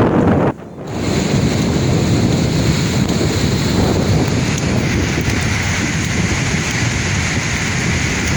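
Sea waves surging and washing on the shore, with wind on the microphone. The sound briefly drops out about half a second in, then resumes.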